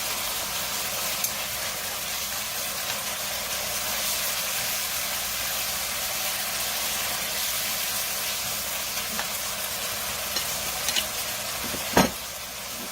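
Steady sizzling hiss of sauce cooking in a pan on the stove, over a faint low hum, with a few light ticks. One sharp knock near the end is the loudest sound.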